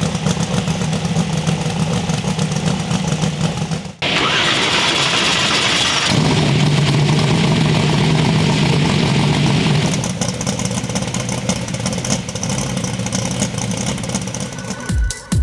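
Twin-turbocharged Proline 481X V8 in a drag-race Camaro running. The sound changes abruptly about four seconds in, with a loud hiss for about two seconds, before the engine note returns.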